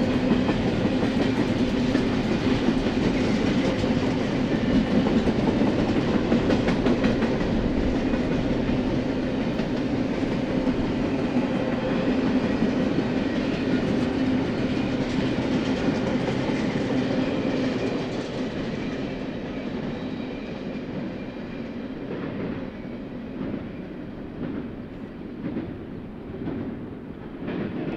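Double-stack intermodal container cars of a freight train rolling past on the rails: a steady rumble with wheels clicking on the track. The sound drops off about two-thirds of the way in as the end of the train goes by, then cuts off suddenly at the end.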